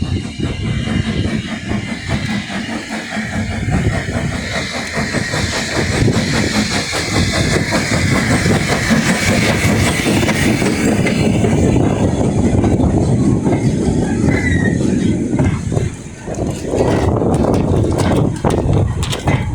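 Small steam tank locomotive passing close by, with a rapid, even chuffing and the clatter of wheels over the rails. It grows louder to a peak about halfway through, then eases off.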